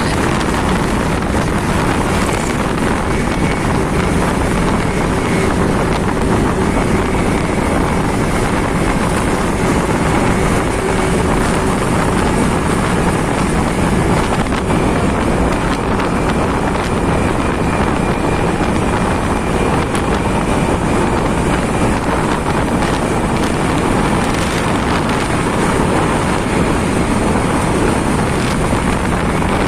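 Steady wind noise on the microphone of a moving motorcycle, over the continuous sound of the motorcycle's engine and tyres on the road.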